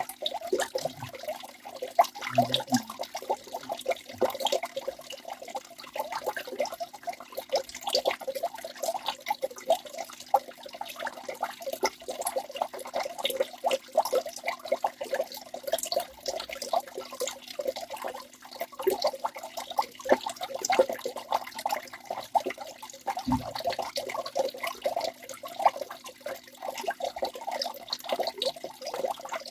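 Waterfall water splashing and gurgling without a break, a dense run of quick irregular splashes.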